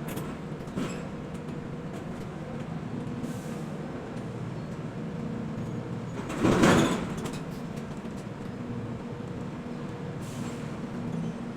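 Heavy port machinery running with a steady low hum, and one brief loud hiss or whoosh about six and a half seconds in.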